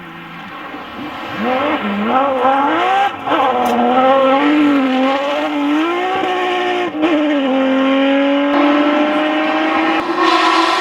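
Porsche 911 GT3 RS flat-six rally engine at full throttle. It starts faint, then comes up loud, the revs climbing and dropping back with quick upshifts about 3 and 7 seconds in, then a long steady pull, and it gets louder again near the end.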